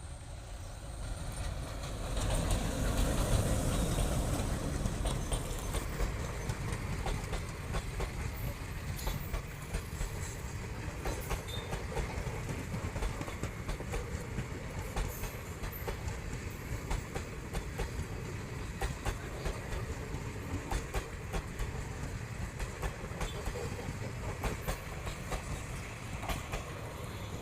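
Train passing close by, its wheels clattering over the rail joints in a dense run of clicks. It builds over the first couple of seconds, is loudest about three to five seconds in, then goes on steadily.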